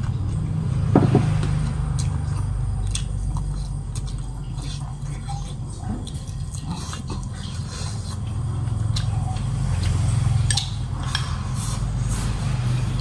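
A person chewing fried rat meat with open-mouth eating noises and scattered sharp clicks, over a steady low hum.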